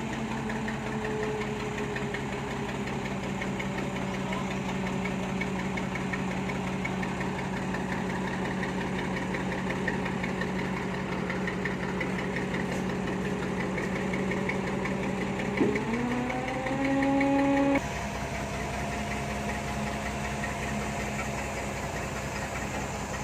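A vehicle engine idling steadily. About two-thirds of the way through it is revved up sharply, held higher and louder for about two seconds, then drops back abruptly to idle.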